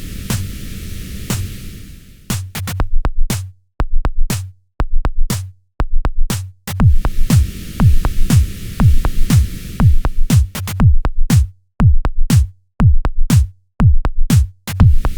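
Electronic dub techno music: a filtered noise wash for the first couple of seconds, then a steady drum machine kick drum and hi-hat beat that drops out briefly at regular points.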